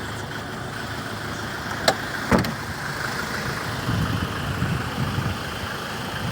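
Land Rover Defender 110's 2.2-litre four-cylinder turbodiesel idling steadily, with two sharp knocks about half a second apart roughly two seconds in.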